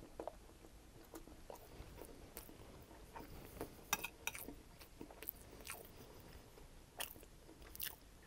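Close-miked chewing of a mouthful of crispy chicken fried rice, mouth closed, with scattered sharp crunches and clicks, the strongest a few about four seconds in and again near the end.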